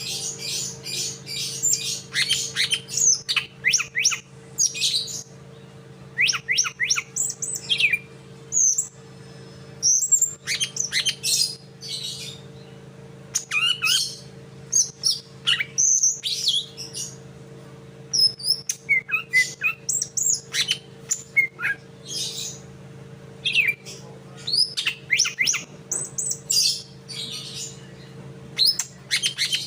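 Songbird singing quick, high chirping and whistled phrases in bursts, the sikatan londo flycatcher-style song that a cucak ijo (greater green leafbird) is learning. A steady low hum runs underneath.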